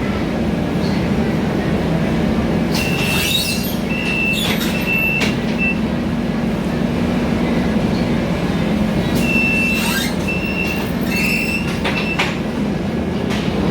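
Cabin sound of a Scania K320iA CNG city bus under way: the engine drone runs steadily, with body rattles. Twice a high squeal comes in short repeated pulses, about three seconds in and again about nine seconds in.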